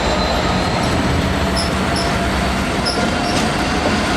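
Train running through the station with a steady rumble and a faint high whine that slowly falls in pitch.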